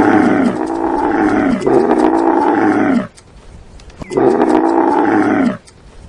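Camel groaning: three long, loud calls, each falling in pitch, the first two back to back and the third after a pause of about a second.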